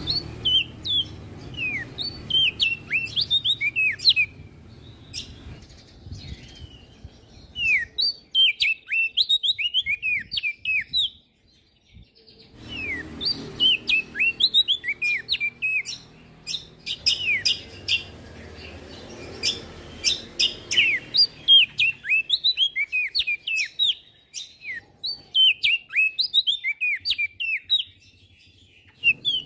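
A prenjak daun songbird singing rapid, high twittering phrases of quick falling chirps, in bursts broken by short pauses, over a low background rumble.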